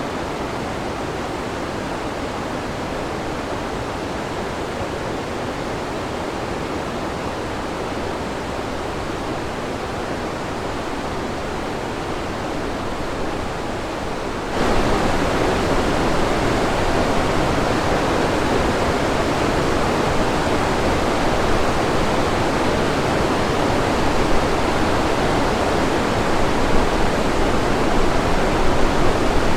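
Rushing water of the Kolvitsa River, a steady full roar of rapids and falling water that jumps abruptly louder about halfway through.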